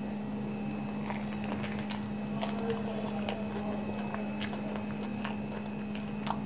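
A person chewing a mouthful of aloo tikki burger in a soft bun: faint, scattered soft mouth clicks. Under it runs a steady low hum, the loudest thing heard.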